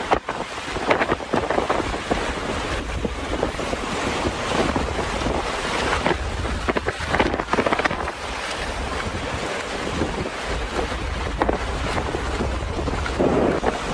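Storm wind gusting hard and steadily, buffeting the microphone with a deep rumble and repeated surges.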